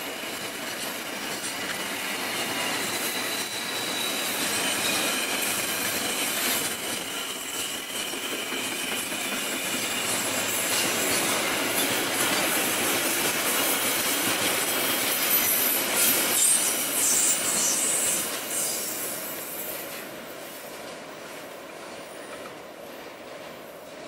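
A long train of railway fuel tank wagons rolling past on the rails: a steady rolling rumble of wheels with a thin high squeal. It grows louder toward two-thirds of the way through, then fades as the last wagon passes and the train moves away.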